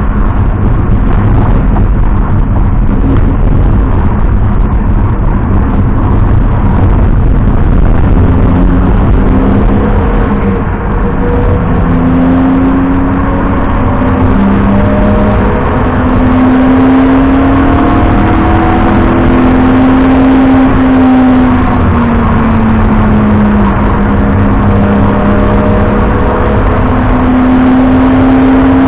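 BMW 330i E90's straight-six engine under load on track, its pitch climbing and dropping repeatedly with acceleration, lifts and gear changes, over a heavy steady rumble of road and tyre noise.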